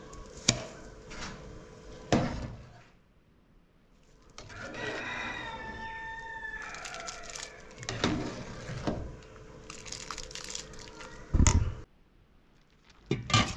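A rooster crowing once, in one long call of about two and a half seconds, amid scattered clicks and knocks. A heavy thump near the end is the loudest sound.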